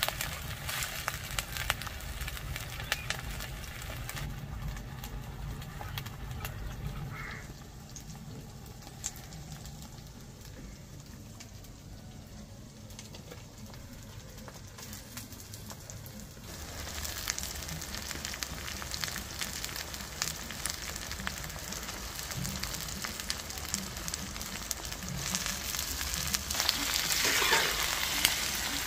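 Frying in a cooking pan: hot oil sizzling and crackling with tempering spices of dried red chillies, curry leaves and mustard seeds, plus ground ginger. The sizzle dies down for several seconds, then grows louder again from just past halfway.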